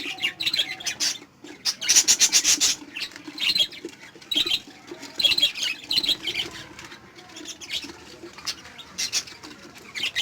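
Small pet parrots chirping and squawking in rapid, shrill bursts that come and go every second or so.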